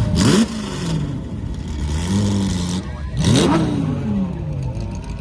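Performance car engines revving hard in two quick bursts, sharply rising in pitch: one right at the start and another about three seconds in. Engines keep running more steadily in between.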